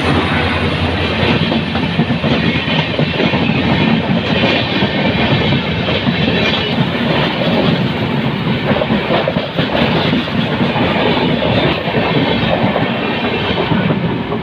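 A train passing close by, loud, its wheels clattering over the rail joints.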